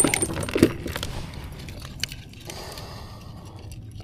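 Rummaging through kayak gear for a fish scale: small hard items clink and rattle, thickest in the first second, followed by a brief rustling scrape near the end.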